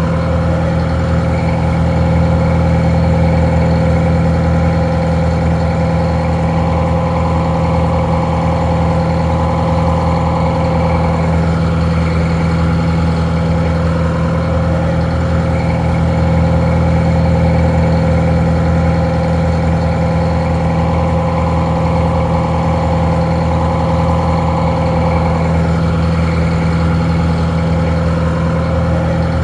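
Detroit Diesel 4-71 two-stroke four-cylinder diesel engine idling steadily. It sounds a little muffled.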